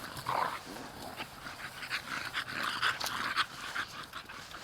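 American bully dog panting, a string of short, quick breaths.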